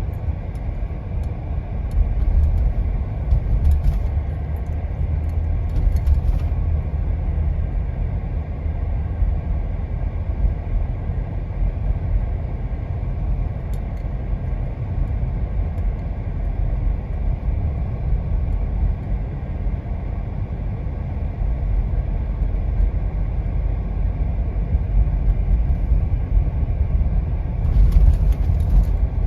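Steady low engine and road rumble of a vehicle driving, with a few brief light rattles.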